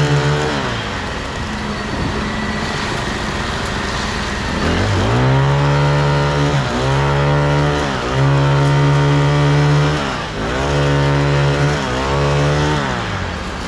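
An engine at a concrete pour revving up and down over and over: it winds up, holds high for a second or two, dips, and picks up again several times, then drops back near the end.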